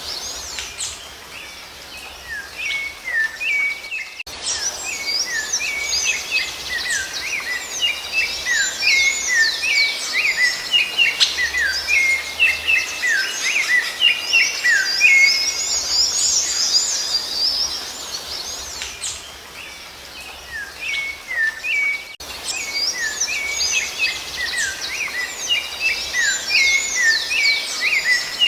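Dense birdsong: several birds chirping and whistling over one another, with many short falling notes and quick high arched notes. The sound thins out for a few seconds and breaks off briefly twice, at about four seconds in and near twenty-two seconds.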